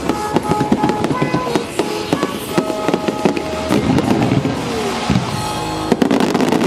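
Fireworks display: a rapid string of bursts and crackles over music from loudspeakers.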